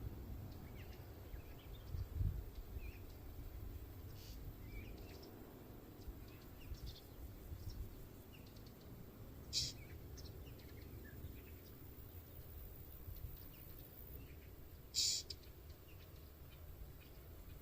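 Small songbirds giving short, high chirps and call notes scattered throughout, with two louder, noisier calls about ten and fifteen seconds in, over a low wind rumble on the microphone.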